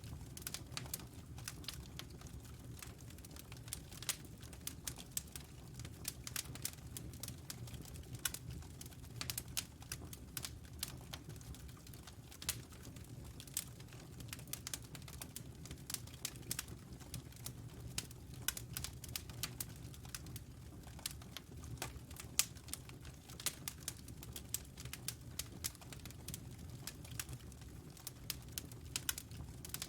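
Wood fire burning in a fireplace: many irregular sharp crackles and pops over a low, steady rumble of the flames.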